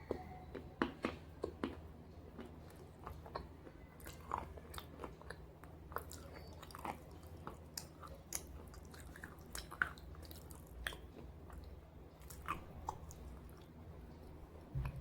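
Slate pieces being bitten and chewed close to the microphone: irregular sharp crunches come every second or less, thinning out in the later part.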